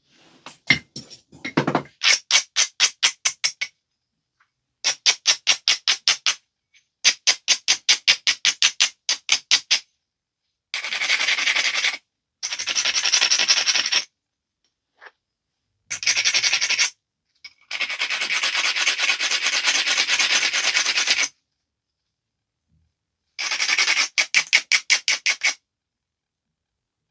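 An abrader stone rubbed back and forth along the edge of a knapped stone biface, grinding the edge to prepare platforms for flaking. It goes in bursts of quick strokes, about five a second, with some longer stretches of steady scraping and short pauses between.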